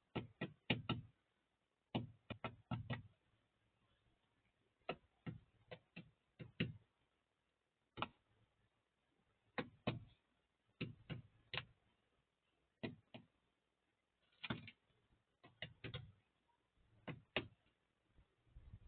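Birds' beaks pecking at food: sharp taps in short irregular bursts of two to four, with quiet gaps between.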